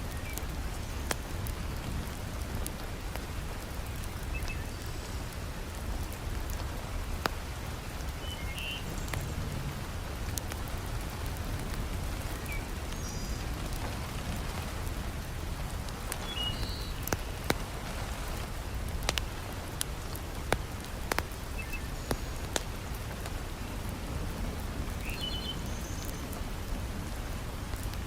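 Heavy rain falling steadily, with scattered sharp crackles and pops from a wood fire in a fireplace.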